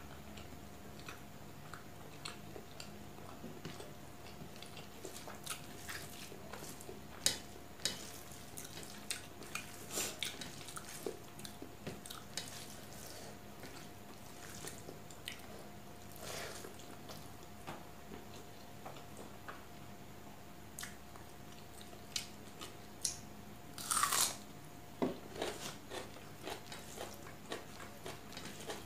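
Close-up eating sounds: chewing with wet mouth clicks and smacks as a person eats chicken and egg curry with rice by hand. There are small clicks throughout, a louder, longer smack about 24 seconds in, and a faint steady hum underneath.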